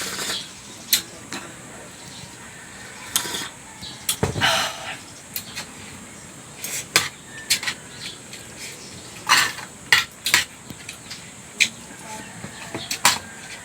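Cutlery clinking and scraping against a plate during a meal, in scattered sharp clicks and short clatters.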